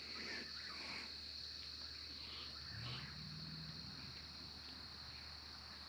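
Faint, steady chorus of insects, a high-pitched drone that holds throughout, over a low steady hum.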